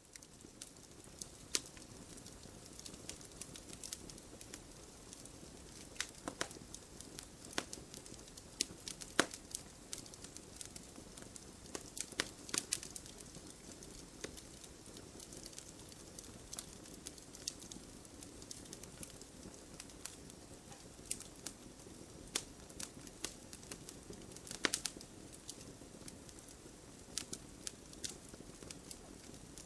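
Wood campfire crackling: irregular sharp pops and snaps over a soft steady hiss of burning, with a few louder pops about 9, 12 and 25 seconds in.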